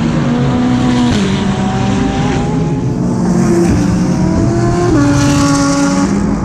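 GT3 race car engine heard onboard under power, its note climbing as the car accelerates, with abrupt pitch steps about a second in and about five seconds in as the gears change.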